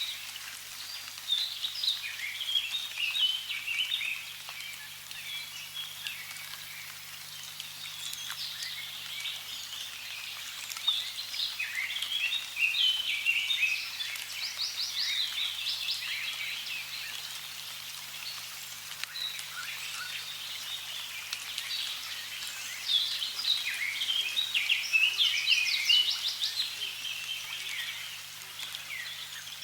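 Several birds singing, chirps and rapid trills coming in three busier bouts, over a faint steady hiss of running water.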